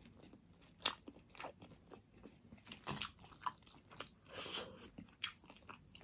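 Quiet close-up mouth sounds of someone chewing a juicy pork momo: scattered wet smacks and clicks, the loudest about one and three seconds in, with a short hiss about four and a half seconds in.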